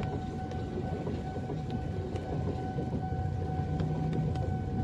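KRL Commuter Line electric train passing close by at a level crossing: a steady low rumble with scattered sharp clicks, heard from inside a car with rain on the windshield. A steady high tone sounds over it.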